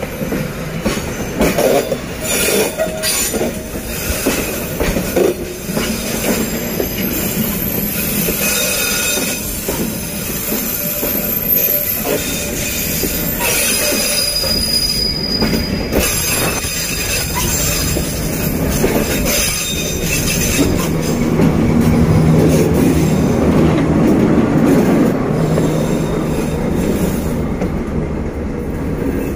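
Freight wagons rolling slowly past on a curve, their steel wheels squealing against the rails, with clicks over the rail joints. In the second half the diesel engine of the D12E pusher locomotive grows louder as it comes up behind, pushing the train up the grade.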